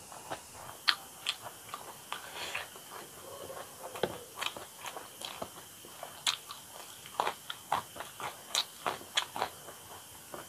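Close-miked chewing and mouth sounds of a person eating: an uneven run of short, sharp wet clicks, a few a second.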